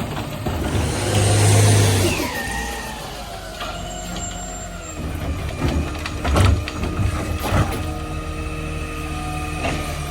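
Garbage truck running while packing: a steady engine drone, a burst of air hiss about a second in, then a whine sliding down in pitch from the packer, and a few sharp knocks and bangs later.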